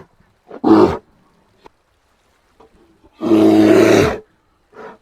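Brown bear roaring: a short call just before a second in, then a long, deep roar lasting about a second, and a brief call near the end, with silence between.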